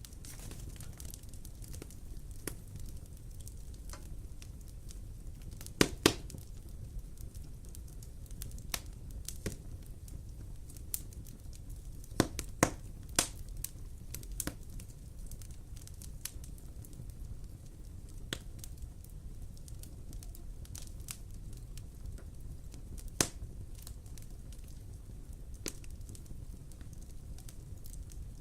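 Wood fire burning in a fireplace: a steady low rumble with scattered crackles and a few sharp, louder pops.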